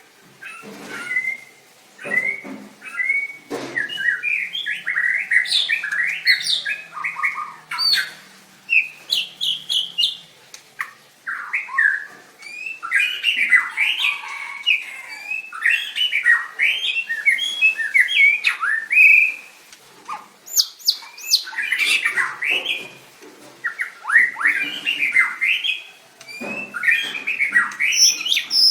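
White-rumped shama singing a long run of quick, varied whistled and chattering phrases, mostly high-pitched, broken by a few brief pauses.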